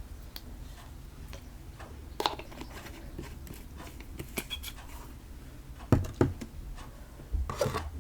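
Scattered small taps, clicks and knocks from handling slime-making things on a table, with two louder knocks about six and seven and a half seconds in.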